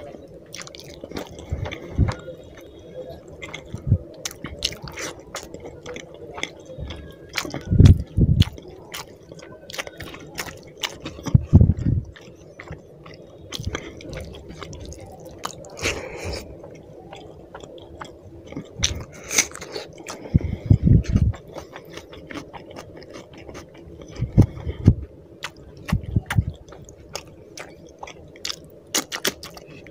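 Close-miked chewing and wet mouth sounds of someone eating rice and fish curry by hand, with squishing as fingers mash the rice into the gravy. Several low thumps stand out among many small clicks.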